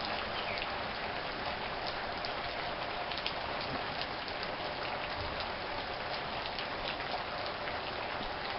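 Rain falling steadily, with scattered sharper drop ticks over an even hiss.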